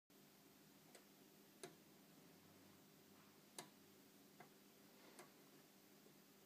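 Near silence: a faint steady low hum with five faint, irregularly spaced clicks.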